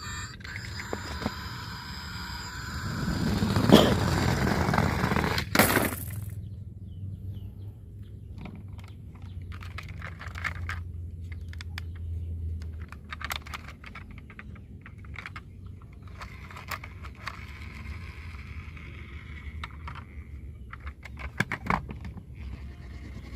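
Small toy cars being handled: a run of small clicks, knocks and scrapes, with a louder scraping stretch a few seconds in and a quick cluster of clicks near the end.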